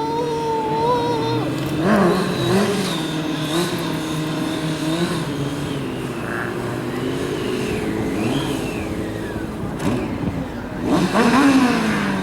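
Vehicle engines revving up and down over and over, several engine pitches overlapping, with a louder rev surge near the end.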